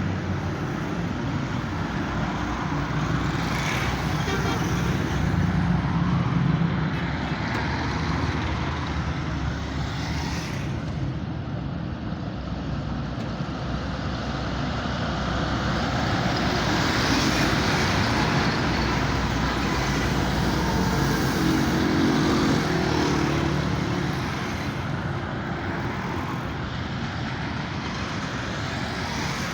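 Large vehicle engines running amid road traffic noise: a continuous low rumble that swells a few seconds in and again past the middle, then eases.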